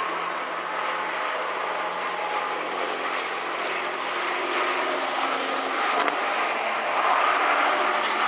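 Vehicle on the road: a steady drone of engine, tyre and wind noise, getting a little louder near the end.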